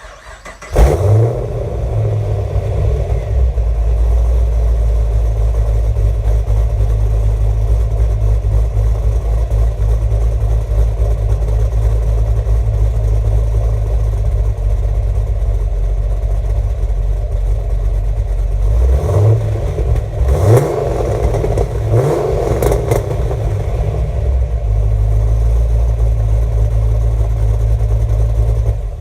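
Pontiac G8 GT's 6.0-litre V8 with an aftermarket cam, longtube headers, an X-pipe and Dynomax Super Turbo mufflers, cold-started: it cranks, catches with a loud flare and settles into a steady deep idle. About two-thirds of the way through it is revved quickly about three times, toward 3,500 rpm, then returns to idle and shuts off.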